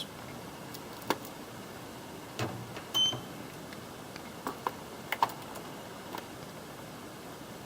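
Scattered plastic clicks and light knocks of hands handling the RC model and its gear, with a brief high beep about three seconds in; the motor is not running.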